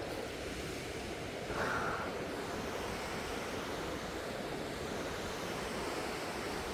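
Steady rushing of a waterfall, with a short, brighter sound about a second and a half in.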